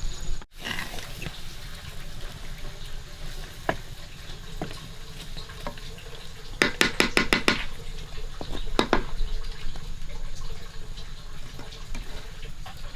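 Kitchen food-preparation sounds: water and the handling of utensils, with scattered clicks. About seven seconds in comes a quick run of about eight sharp knocks, and two more follow a little later.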